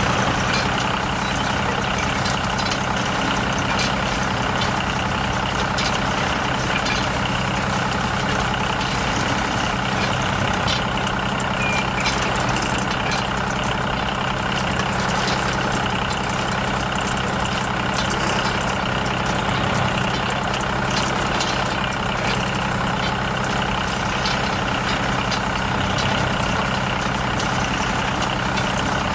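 A heavy vehicle engine running steadily at idle, an even low drone that holds the same pitch and level throughout.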